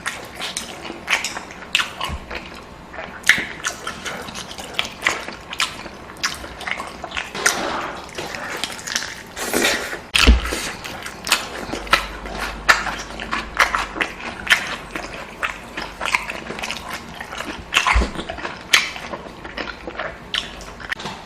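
Eating sounds: chewing with a dense, irregular run of wet smacks and clicks, a few louder than the rest.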